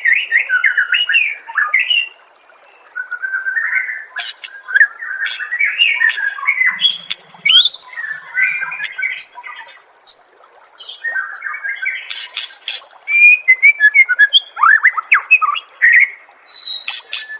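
White-rumped shama singing a varied song of fast whistled and gliding phrases mixed with sharp clicking notes, broken by short pauses about two and ten seconds in.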